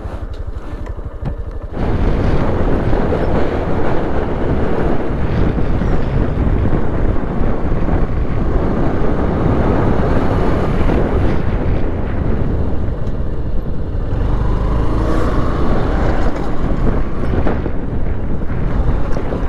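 Honda Shine 125 single-cylinder motorcycle riding along, its engine running under a loud rush of wind on the microphone; the wind noise comes in suddenly about two seconds in.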